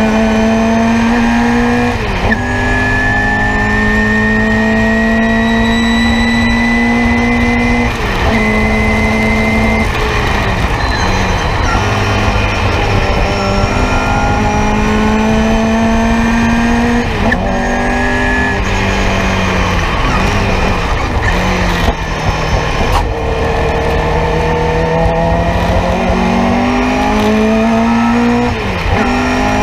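A Nissan Sentra race car's four-cylinder engine, heard from inside the cockpit under hard driving. Its pitch climbs steadily through each gear and drops sharply at every gear change, again and again.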